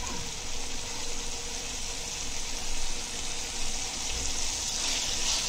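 Onion-tomato masala sizzling in hot oil in a frying pan: a steady hiss that gets a little brighter near the end.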